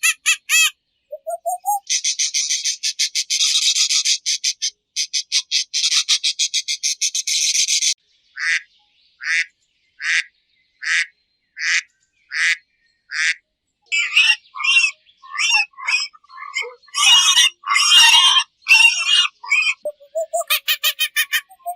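Animal calls: fast, high-pitched pulsed trills, then a run of short calls repeated about once a second, then a denser stretch of overlapping calls.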